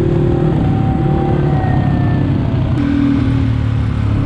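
Dirt-bike engines idling together, a steady low running sound.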